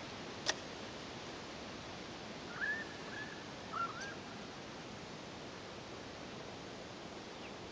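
Two short bird calls, about two and a half and nearly four seconds in, over a steady low hiss, with a single sharp click about half a second in.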